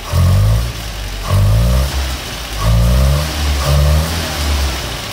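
Land Rover Series III 2.25-litre four-cylinder petrol engine idling and revved in four short throttle blips about a second apart, each rev rising briefly and falling back to idle. There is a hesitation as it picks up. The owner does not think the carburettor is to blame and suspects something is exploding outside the cylinders.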